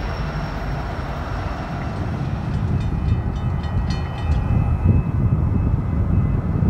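Freight train rolling past: a steady low rumble of wheels on rail. Around the middle comes a run of sharp clicks, with a faint high whine holding on after them.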